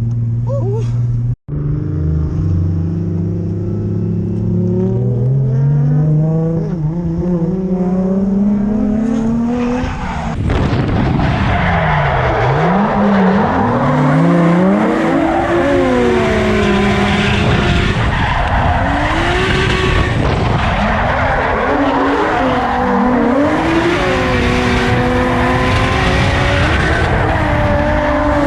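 Drift car's engine pulling with revs climbing steadily for about ten seconds, then the car sliding through a drift with tyres squealing while the revs rise and fall under the throttle.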